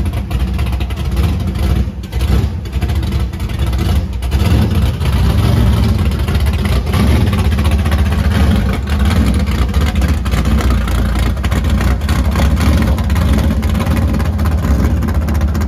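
Classic car engine running loudly with a deep, steady rumble.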